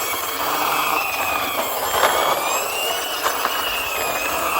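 Toy ambulance giving off a steady whirring mechanical noise with a faint wavering whine above it.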